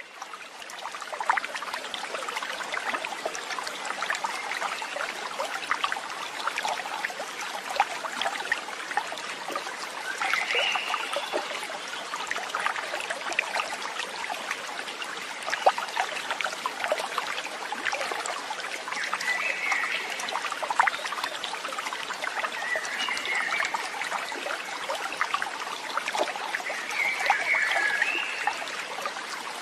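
Stream of running water trickling and babbling steadily, with a few short bird calls at intervals.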